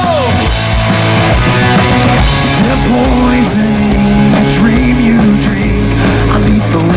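Rock band playing live in a loud instrumental passage, with guitar, bass and drums. A long held note slides down and drops away at the very start, and a guitar riff moves over a steady bass and drum beat.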